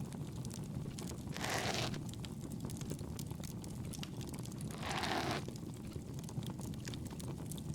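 Campfire crackling steadily with fine pops over a low rumble, while soft ear-pick scraping strokes come at the ear about every three and a half seconds, twice in all.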